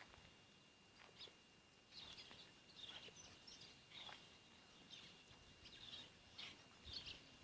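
Faint bird chirping: short high calls, some sweeping quickly downward, repeating about once or twice a second over a faint steady high tone.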